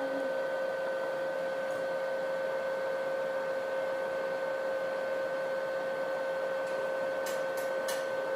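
Steady electrical whine from solar power equipment running under load, one constant tone over a hiss, with three or four sharp clicks near the end.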